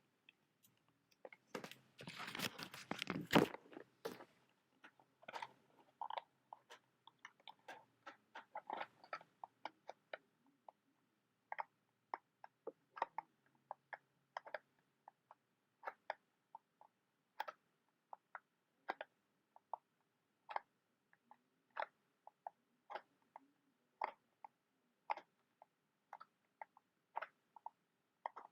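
A close-miked scratchy burst about two seconds in, the loudest sound, typical of a match being struck on a matchbox. A long run of light, sharp taps follows, irregular at about two a second, like fingernails tapping on the box.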